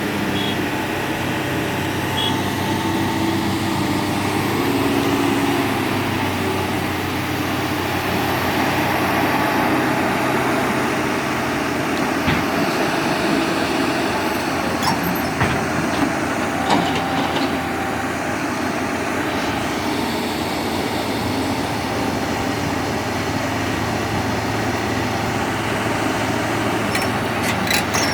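Heavy diesel engine running steadily at a low idle, with a few scattered knocks and a quick run of clicks near the end.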